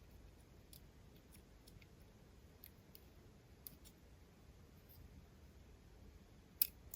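Faint, sparse clicks and taps of small phone parts and tools being handled while fitting a part into an iPhone 5s, with one sharper click near the end.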